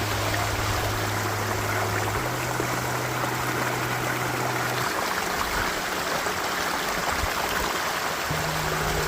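Steady rush of flowing water, like a stream. Low held notes of background music sound under it for the first five seconds or so.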